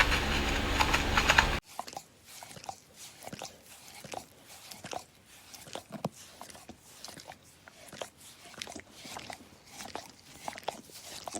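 A loud steady rumble cuts off abruptly about a second and a half in. It gives way to soft, irregular crunching and clicking, like an animal chewing food.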